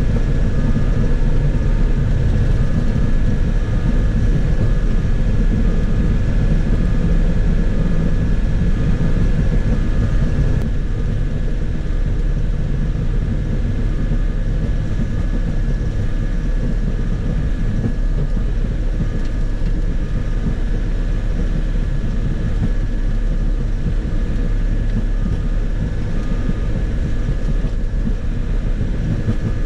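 Bobcat E50 compact excavator's diesel engine running steadily under work, with a steady high whine and a faint beep repeating about once a second. The level drops slightly about ten seconds in.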